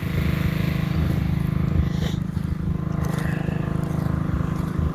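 Portable generator's small engine running steadily under the load of Christmas lights, with an even, fast-pulsing low hum.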